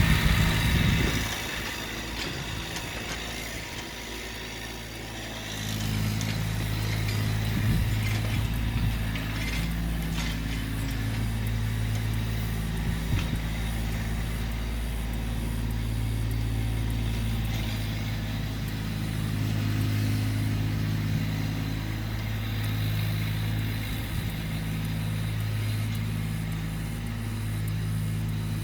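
Massey Ferguson GC1710 subcompact tractor's three-cylinder diesel engine running steadily under working throttle. It grows louder about five seconds in and holds there, swelling slightly as it takes load.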